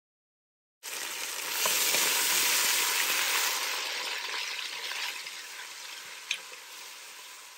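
Ginger-garlic paste sizzling in hot oil in a stainless steel pot as it is stirred in with a metal spoon. This is the start of frying off its raw, pungent taste. The sizzle starts abruptly about a second in, is loudest early, then gradually dies down, with one sharp click of the spoon on the pot near the end.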